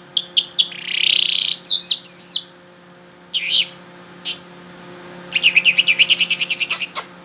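Songbird singing: a string of separate chirps and gliding whistled notes, then a fast trill of about nine notes a second near the end.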